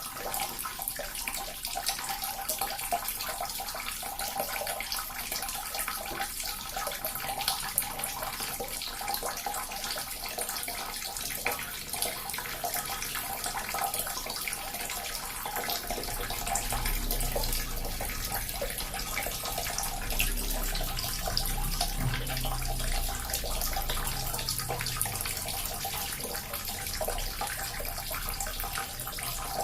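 Small water fountain running, a steady splashing trickle of water. About halfway through, a low rumble joins underneath.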